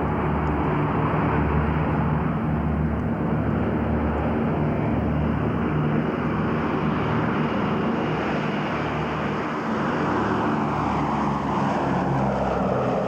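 Several B-17 Flying Fortress bombers flying over, their Wright R-1820 Cyclone radial engines droning steadily; near the end the tone falls as they pass.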